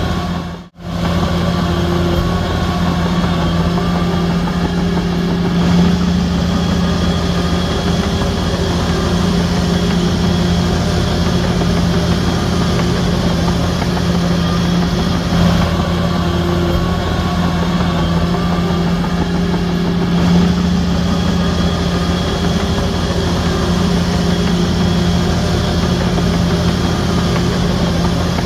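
Bulldozer's diesel engine running steadily at a constant pitch, with a brief dropout in the sound under a second in.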